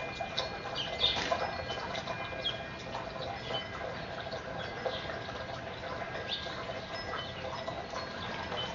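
Birds at a seed spread: a busy scatter of short chirps and ticks, with a few faint ringing tones held underneath.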